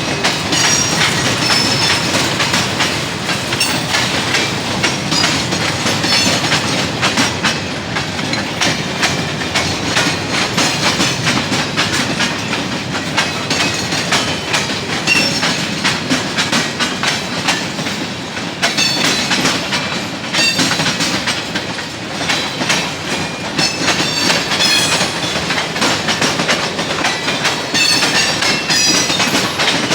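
CSX freight train cars rolling past at speed, their wheels clacking steadily over rail joints, with occasional short high squeals.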